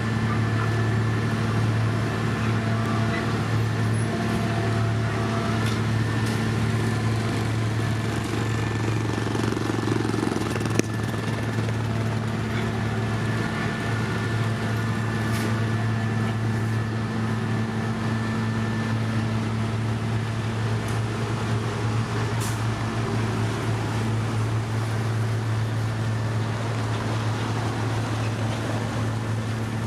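Heavy road-construction machinery running steadily, its diesel engine giving a constant low drone, with one sharp knock a little over a third of the way in.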